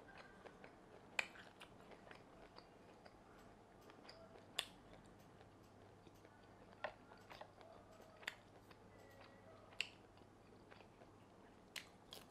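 Quiet, close-miked chewing of fried fish balls with a salmon-roe filling, with scattered wet mouth clicks and a handful of sharper, louder smacks.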